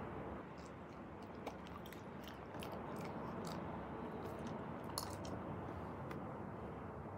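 Person chewing soft bread with small wet mouth clicks scattered through, the sharpest about five seconds in, over a steady low background hum.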